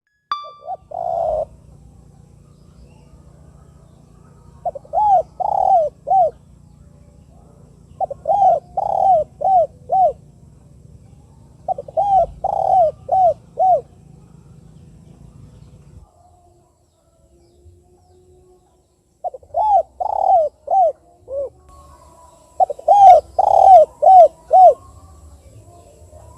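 Spotted dove cooing: about six phrases, each a quick run of three to five coo notes, a few seconds apart, with a longer pause in the middle.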